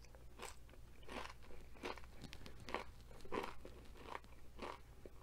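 A person chewing a mouthful of crunchy tortilla-chip nacho close to the microphone, with a crisp crunch at each chew, about seven chews in a steady rhythm of roughly one and a half per second.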